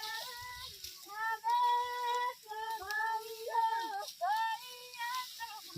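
Women singing a Marwari bhahiya folk song in a high voice, in long held and gliding phrases with no instruments.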